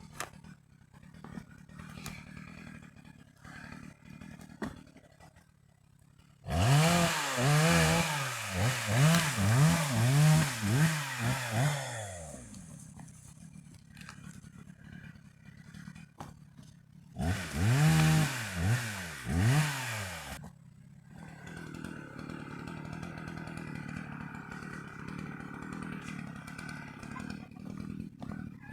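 Chainsaw run at full throttle in two spells, the first about five seconds long and the second about three, its pitch rising and falling as it bogs and recovers while cutting wood. It runs much quieter between the spells and afterwards.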